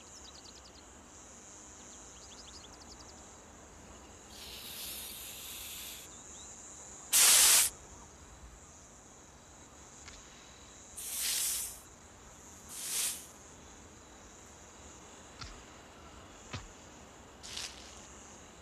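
Hognose snake hissing in four forceful blasts during its cobra-like bluff display, the loudest about seven seconds in. Crickets chirp steadily underneath.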